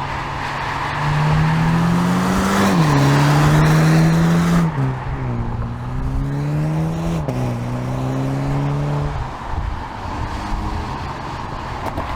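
MINI John Cooper Works Clubman's 306 hp turbocharged four-cylinder accelerating hard through the gears: the engine and exhaust note climbs in pitch, drops sharply at each of three upshifts, then dies away about nine seconds in.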